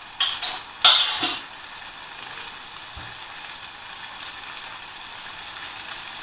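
Paneer slices sizzling in hot oil in a frying pan: a steady hiss, with two brief louder bursts in the first second or so and a soft thump about three seconds in.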